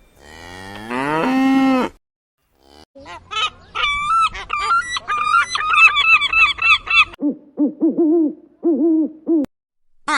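A cow moos once in a long call that rises and then holds low. After a short pause, a flock of geese honk rapidly over one another for about four seconds, followed by a run of short, lower repeated calls.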